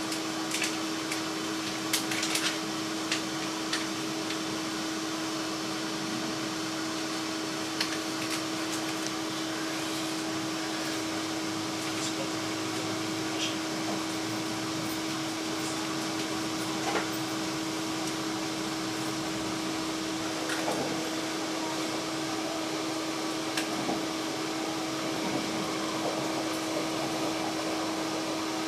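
Steady hum and rushing noise of an electric train, with one constant tone and a few light clicks.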